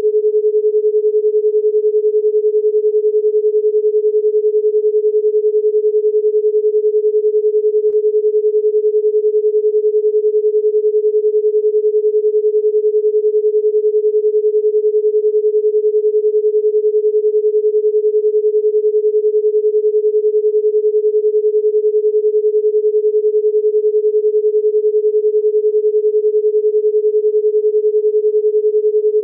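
A steady pure tone at a single unchanging pitch a little under 500 Hz, held at an even level with no breaks.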